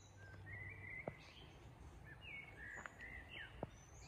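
Faint woodland birdsong: a string of short chirping notes, some sliding down in pitch, with a couple of soft clicks among them.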